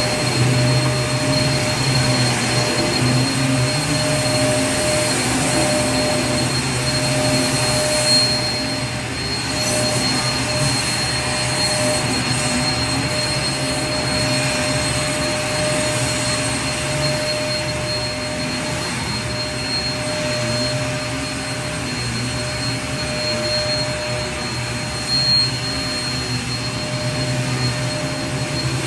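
Vacuum cleaner motor running steadily: an even rushing noise with a constant low hum and a thin high whine, with a brief small bump about eight seconds in and another near the end.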